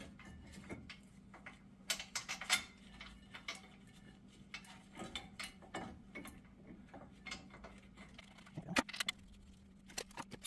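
Scattered light metallic clicks and clinks of brake pads and their spring clips being handled and seated in the caliper bracket of a disc brake.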